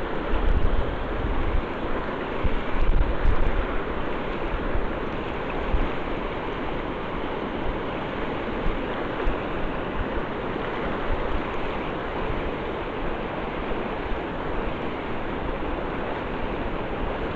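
Fast-flowing river water rushing steadily, with a louder low rumble in the first few seconds.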